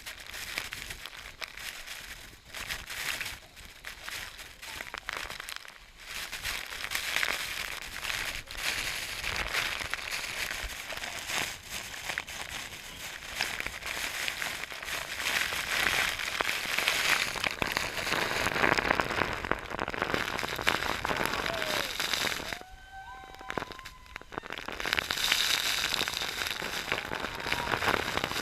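Rushing, splashing water of a tall waterfall, a dense crackling hiss that swells and eases, dropping away briefly about three quarters of the way through.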